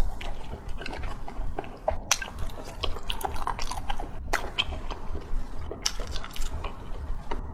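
A person chewing food close to the microphone: wet, smacking mouth sounds in an irregular run of short clicks.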